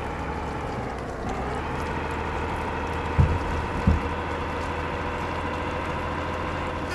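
Truck engine running steadily while driving, its note shifting slightly about a second in. Two low thumps come a little over half a second apart about three seconds in.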